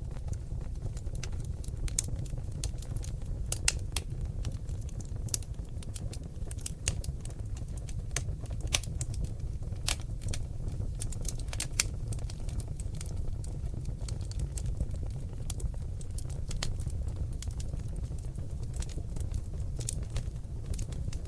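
Seasoned oak logs burning in a fireplace, crackling with irregular sharp pops and snaps over a steady low rumble of flame.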